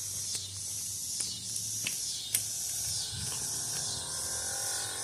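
Central air conditioner starting up. A low hum is followed, about three seconds in, by steady tones as its motor comes up to speed. Over it runs a high, evenly pulsing hiss of night insects.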